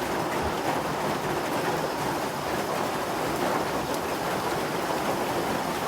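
Steady rain pouring down, an even hiss of falling water.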